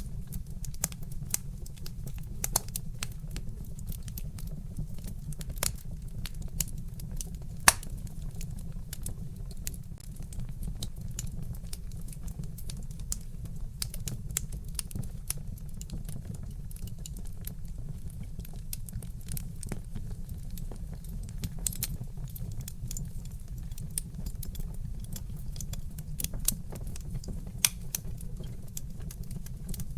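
Wood fire crackling: irregular sharp pops and snaps from burning logs, one louder pop about eight seconds in, over a steady low rumble.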